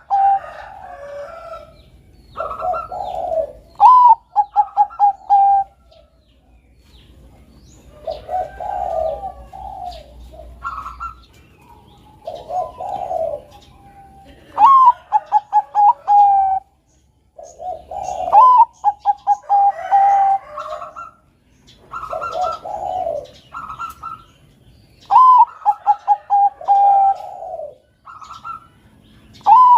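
Zebra dove (Bangkok-type perkutut) cooing. It repeats its phrase every few seconds: a rising note followed by a quick run of short, even notes, with lower, softer coos in between.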